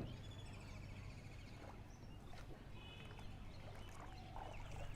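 Faint outdoor riverside ambience: a steady low rumble with a few short, high chirping trills from a distant bird, one near the start and another about two and a half seconds in.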